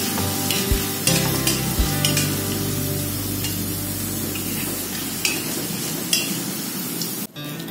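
Petai beans sizzling as they fry in hot oil in a wok, with a metal spatula now and then tapping and scraping against the pan as they are stirred. The sound cuts off suddenly shortly before the end.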